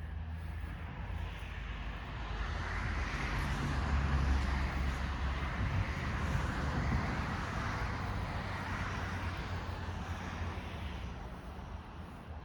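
Yanmar AF26 compact tractor engine running steadily, getting louder over the first few seconds and then fading back, as when it revs up or drives closer and away.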